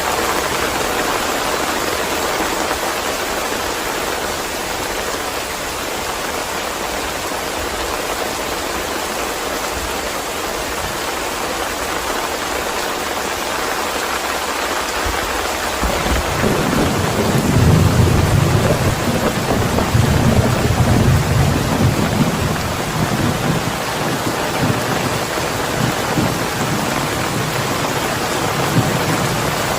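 Steady heavy rain, with a roll of thunder rumbling in about halfway through, loudest for a few seconds and then fading away.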